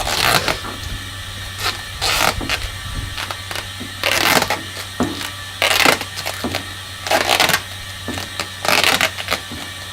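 Duct tape pulled off the roll with six short ripping pulls, about one every second and a half, as it is wound around an inflatable pipe-repair packer.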